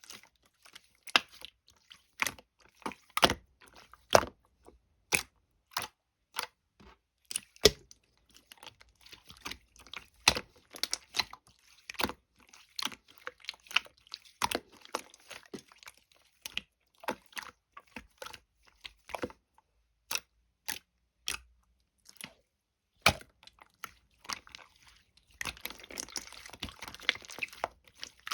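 White slime being played with, giving sharp, irregular pops and clicks, with a stretch of denser crackling a few seconds before the end.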